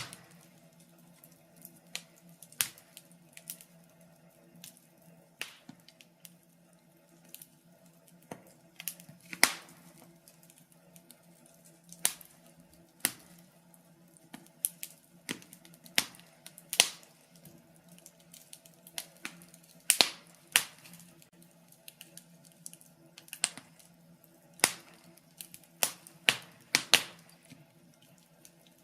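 Wood fire crackling in a fireplace: irregular sharp pops and snaps every second or so, some in quick pairs, over a faint steady hum.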